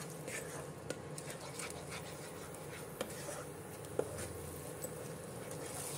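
Tomato, cashew and almond masala paste sizzling softly in oil in a non-stick kadai on low flame as a spatula stirs and scrapes it, with a few sharp clicks scattered through. It is frying until the oil separates.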